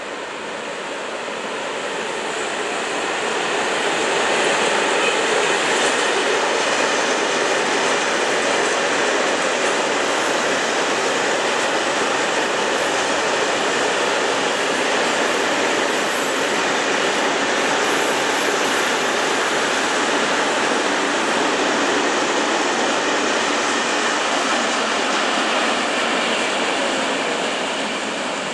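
A train running through the railway station, its wheels rolling on the rails: the noise builds over the first few seconds, holds steady for a long stretch and eases off near the end, with a faint high wheel squeal in the first half.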